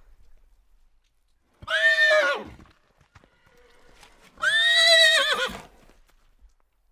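Horse neighing twice: a short whinny about one and a half seconds in, then a longer, wavering one about halfway through.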